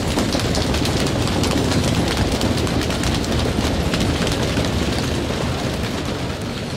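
A crowd making a thunderstorm with their bodies: a dense patter of many hands clapping and snapping over a low rumble, easing off near the end.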